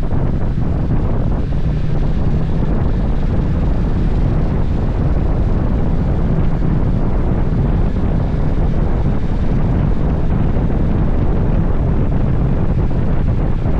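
Loud, steady wind buffeting on the microphone, a heavy low rumble with no breaks.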